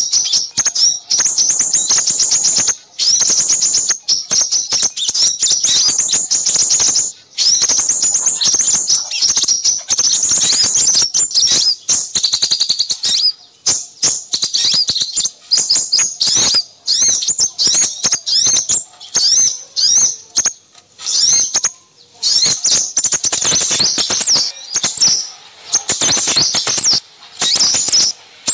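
Many small birds chirping and twittering in a busy, high-pitched stream of rapid chips and trills, with only a few brief gaps. It is a small-bird lure recording, played to draw sepahraja in.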